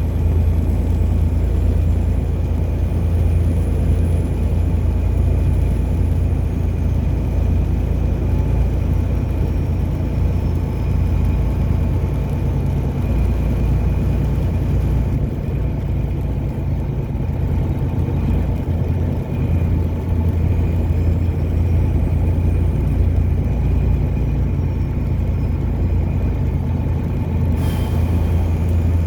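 Car driving along a road, with the engine and tyres making a steady low rumble that stays even throughout.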